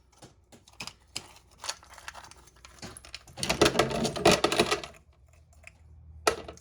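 Small metal parts clicking and clattering as they are handled, with a denser burst of rattling in the middle.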